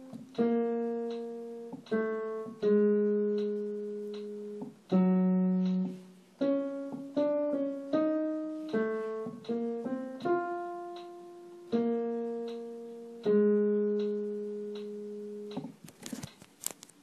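Piano playing the tenor part of a choral arrangement as a single melody line, one note at a time, each struck note fading away. A few clicks near the end.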